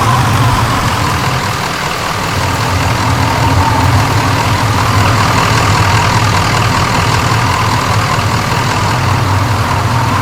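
A motor vehicle's engine running steadily with a low hum, under a constant wash of noise.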